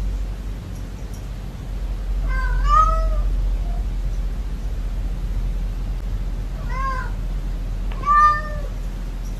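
A cat meowing three times, about two and a half, seven and eight seconds in, over a steady low hum.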